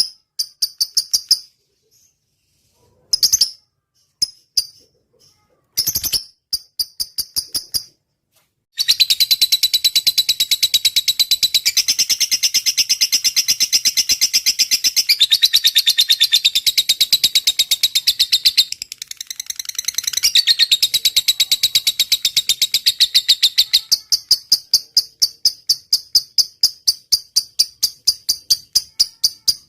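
Lovebird singing its 'ngetik' song, a fast ticking like typing. It starts with a few short bursts of rapid ticks, runs from about nine seconds into one long unbroken trill, and near the end slows to steady separate clicks about four a second.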